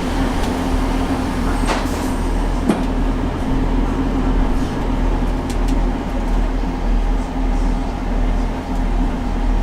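Train running, heard as a steady low rumble and hum, with two brief clicks about two and three seconds in.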